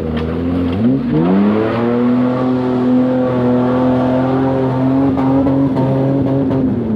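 Off-road vehicle's engine revving up hard about a second in and held at high revs for several seconds, then dropping off near the end.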